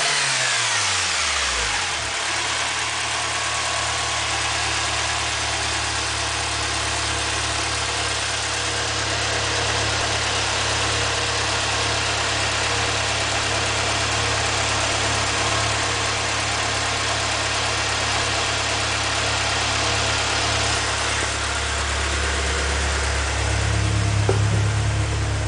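Toyota AE86 Corolla's 4A-GE twin-cam 1.6-litre inline-four, with a TRD header and no airbox, dropping back from a rev to idle in the first couple of seconds. It then idles steadily. The low note grows louder for a few seconds near the end.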